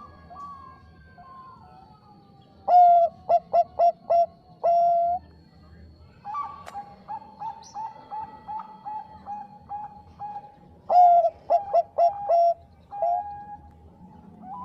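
Zebra doves (Bangkok-type perkutut) cooing: twice a loud phrase of quick short notes ending in a longer held note, about three seconds in and again about eleven seconds in, over steady quieter rippling coos from other doves.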